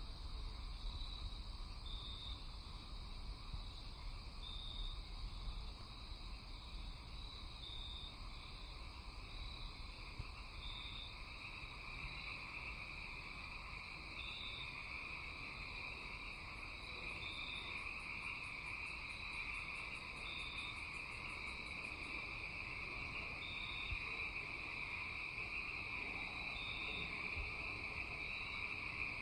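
Night insect chorus: crickets chirping in short repeated chirps every second or two over a steady high trilling that swells from about halfway, with a rapid high ticking for several seconds in the middle. A low background rumble runs under it.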